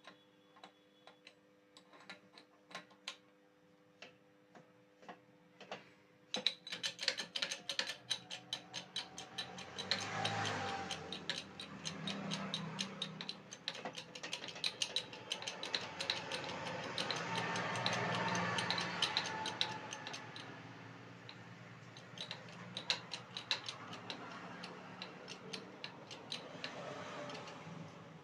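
Hydraulic press being worked to push a shaft into a table fan's rotor, making sharp mechanical clicks. The clicks are sparse at first; about six seconds in they turn into a fast run of several a second, with a rising and falling hiss in the middle.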